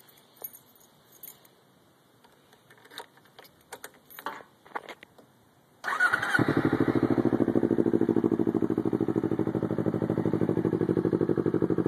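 Faint key jingles and small clicks, then about six seconds in a 2010 Kawasaki Ninja 250's parallel-twin engine is cranked by the starter, catches at once and settles into a steady idle with a rapid even pulse through a Two Brothers slip-on exhaust.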